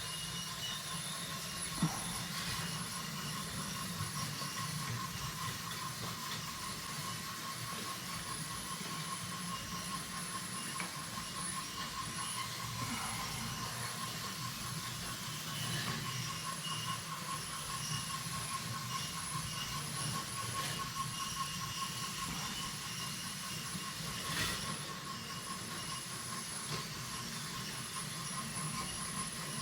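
Several battery-powered toy trains running together on wooden track: a steady whir of small electric motors with a constant high whine, over a low rattle of wheels on the wooden rails and a few light clicks.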